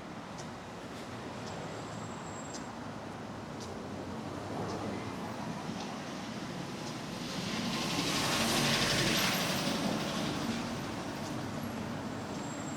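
A road vehicle passing close by over a steady traffic hum: its tyre and engine noise swells to a peak about eight to nine seconds in, then fades away.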